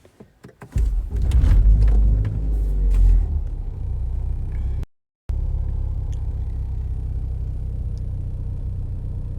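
2015 Ford Focus ST's 2.0-litre turbocharged four-cylinder starting through a new Invidia Q300 exhaust: it catches about a second in, runs up high for a couple of seconds as on a cold start, then settles into a steady, super mellow low idle. The sound cuts out for a split second about halfway through.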